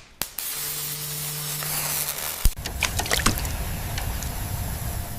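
Radio static: a steady hiss, with a low hum for about two seconds near the start, sharp clicks and a scatter of crackles.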